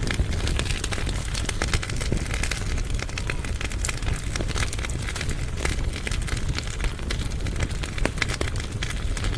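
Firewood burning in a fireplace firebox: frequent sharp crackles and pops over a steady low rumble.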